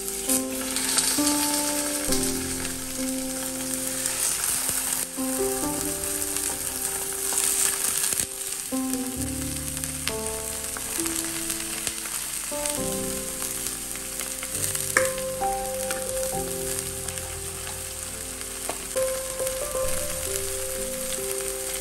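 Fish fillets sizzling as they fry in hot oil in a non-stick pan, the hiss starting as the first fillet goes in and then running steadily. Background music plays underneath.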